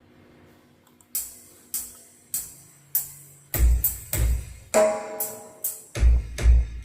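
Music playing through a car audio system with a 10-inch subwoofer. Sharp percussion hits come about every 0.6 seconds from about a second in, and heavy bass drum kicks and a held chord join about halfway through.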